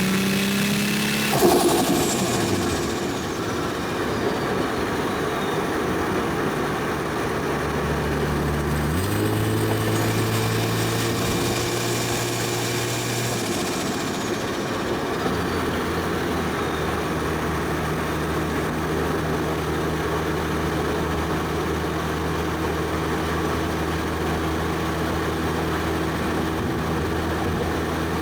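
Single-turbo 1JZ straight-six running at steady cruising revs. The engine note steps up to a higher steady pitch about nine seconds in, then settles lower again about fifteen seconds in. Just after the start, and again around thirteen seconds, a high whistle falls away in pitch.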